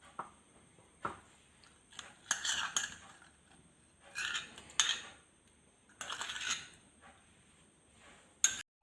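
A spoon scraping and clinking against a cooking pan in several short bursts, with a sharp clink near the end: fresh cream being stirred into butter chicken gravy.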